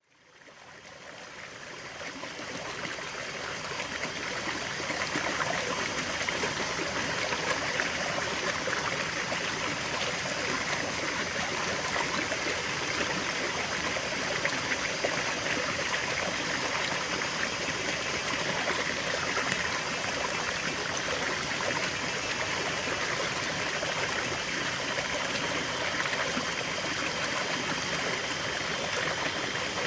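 Small stream trickling and babbling over stones in a steady flow, fading in over the first few seconds.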